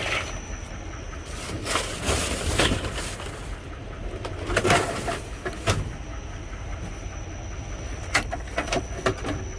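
Bags and discarded items in a dumpster rustling and clattering as they are rummaged through, in three clusters of short knocks and crinkles over a steady low rumble.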